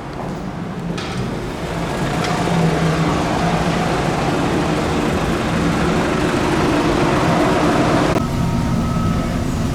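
Steady engine hum under a loud rushing noise; the rushing drops away abruptly about eight seconds in.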